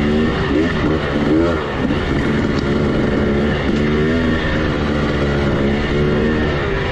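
Motorcycle engine running under changing throttle, its pitch rising and falling again and again.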